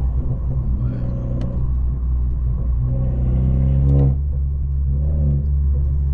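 Straight-piped, catless BMW 530 exhaust droning at a steady cruise, rising in pitch under throttle about three seconds in, then dropping back as the throttle is lifted about a second later.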